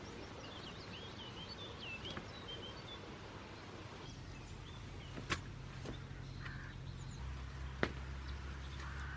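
Faint chirps from small birds over steady outdoor background noise. About four seconds in, a low steady hum begins, and two sharp clicks come later.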